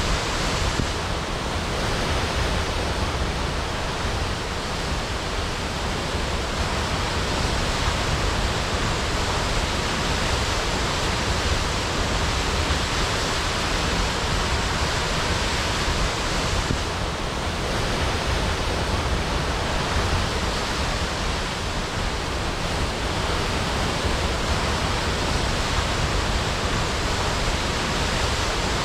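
Waterfall crashing: a steady, dense rush of falling water with a deep low rumble.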